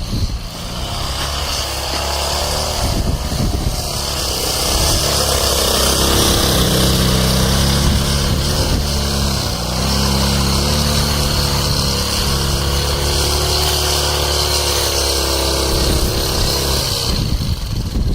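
Ural motorcycle's flat-twin engine running, its revs climbing over a couple of seconds, then held high and steady before dropping near the end.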